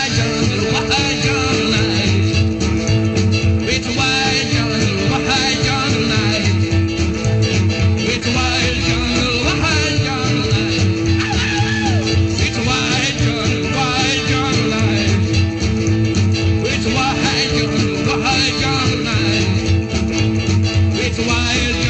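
Rockabilly band playing an instrumental break on the guitar over a steady rhythm.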